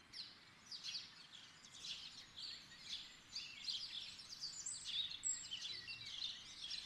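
Small birds chirping, many short calls overlapping, faint.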